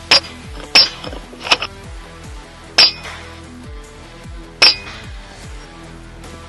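Air rifle shots: five sharp, metallic cracks at irregular spacing in the first five seconds, over background music.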